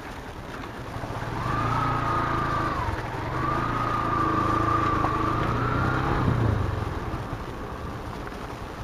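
Motorcycle engine under way, pulling harder from about a second in: its pitch dips around three seconds in, then climbs again. It eases back after about seven seconds over a steady low road rumble.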